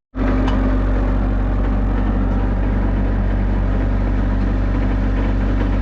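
An engine idling steadily, with an even low hum, cutting in abruptly just after the start.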